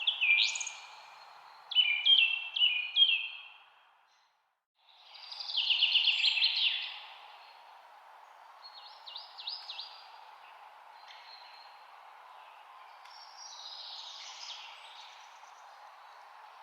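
Songbirds singing: short sweeping phrases repeated several times, then a dense trill about five seconds in and softer phrases later, over a steady background hiss. Everything, hiss included, cuts out for under a second about four seconds in.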